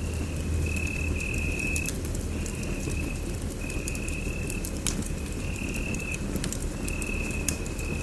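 Wood fire crackling in a fireplace: scattered sharp pops over a low, steady rumble. A thin high tone sounds on and off in stretches of about a second.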